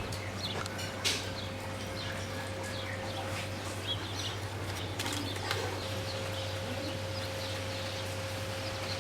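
Faint bird chirps scattered over an even background hiss and a steady low hum.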